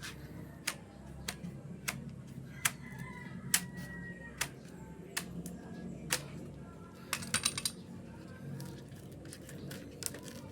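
A series of sharp, irregular clicks and knocks, about one every second, with a quick flurry of them about seven seconds in.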